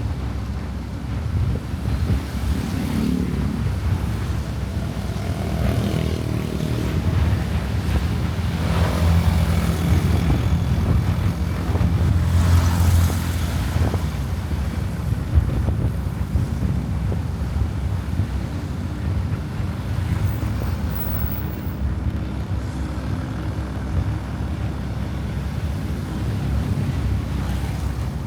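Motorcycle engine running at a steady cruise, with a constant drone and road noise. Louder swells from passing traffic come twice around the middle.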